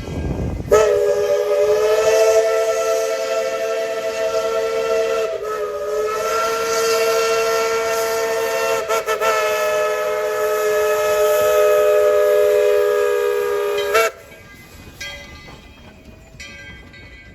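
Narrow-gauge steam locomotive No. 12's steam whistle blowing one long chord of several notes at once for about thirteen seconds. The pitch wavers twice, and the whistle cuts off suddenly.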